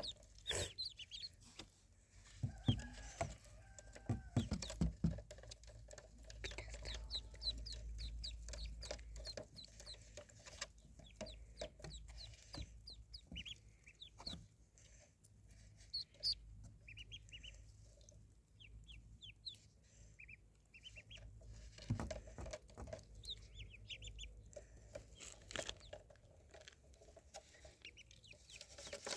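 Ducklings peeping: short, high chirps in quick runs, again and again, with scattered light knocks and a few lower calls a few seconds in.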